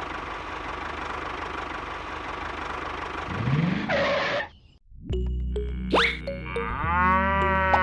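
Mini tractor's small motor running steadily. About four seconds in, a rising whoosh leads into a short drop-out, then background music with cartoon sliding-whistle and boing effects.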